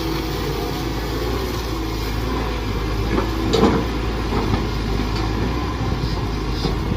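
Mini excavator's diesel engine running steadily during digging, with a brief clatter about three and a half seconds in.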